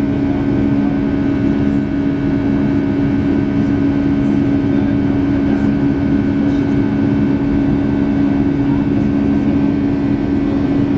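Boeing 757 jet engines heard from inside the passenger cabin: a steady, loud drone with a constant low hum over the rush of airflow.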